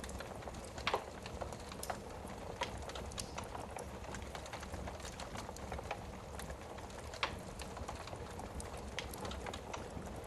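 Wood fire in a fireplace crackling, with irregular small pops and snaps over a low steady hiss; two louder pops stand out, about a second in and around seven seconds in.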